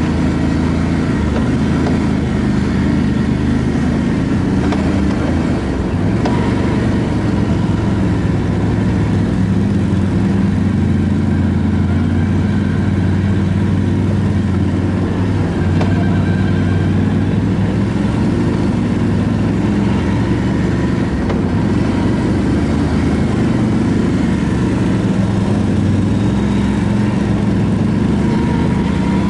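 ATV engine running steadily while riding, its pitch drifting gently up and down with the throttle.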